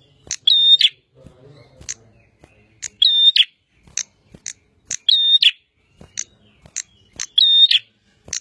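Prinia (prenjak) singing in full voice: sharp, high chips several times a second, broken by a louder trilled phrase about every two seconds, four times.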